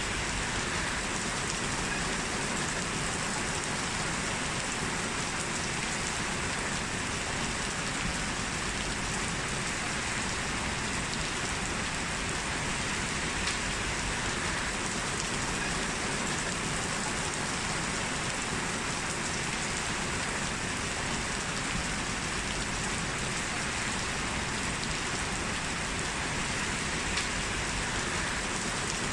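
Heavy rain falling steadily: a dense, even hiss of drops that holds unchanged throughout.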